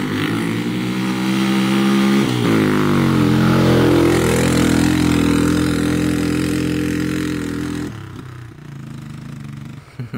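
Small off-road vehicle engine running under throttle, its pitch shifting about two seconds in, then falling away sharply about eight seconds in as the engine stalls.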